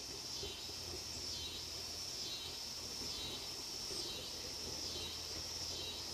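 Steady high-pitched insect chorus that pulses evenly, dipping a little more than once a second.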